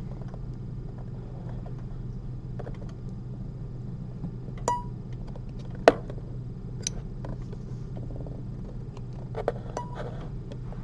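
Metal surgical instruments clicking and clinking a few times during suturing, the loudest click about six seconds in, over a steady low hum.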